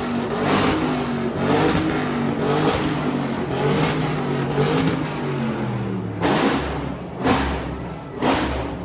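Car engines revving repeatedly, the pitch rising and falling. In the last few seconds come loud, sharp thumps with a deep bass about once a second.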